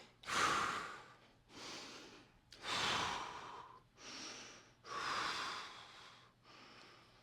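A man breathing deeply and audibly during a held stretch: about three full breaths, each a louder breath about every two and a half seconds followed by a softer one.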